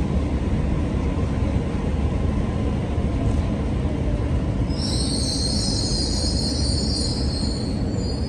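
Train moving through the platform with a steady low rumble; about five seconds in, its wheels set up a high squeal that holds for about three seconds and stops just before the end.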